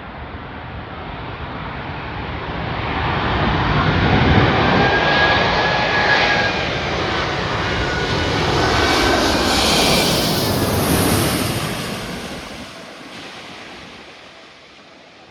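British Airways Airbus A380 jet airliner landing, its four engines passing by: the jet noise swells to a long peak in the middle and then fades away, with a whine that drops slightly in pitch as it passes.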